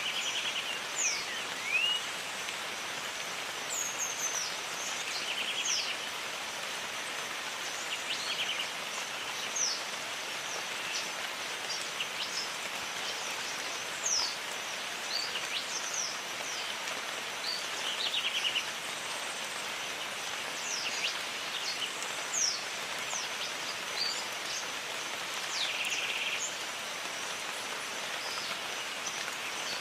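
Jungle ambience: steady rain hiss with many bird calls over it, quick high falling whistles and a short buzzy trill repeated every few seconds. A faint steady high tone runs underneath.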